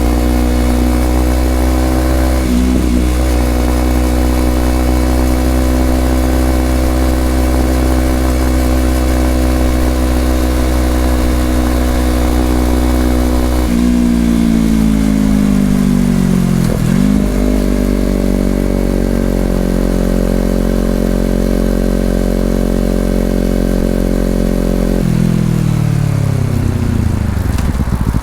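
2020 Honda CBR250RR's parallel-twin engine running through an Over Racing aftermarket exhaust. It holds a steady pitch while cruising, steps down suddenly about halfway through, and steps down again near the end, falling in pitch as the bike slows.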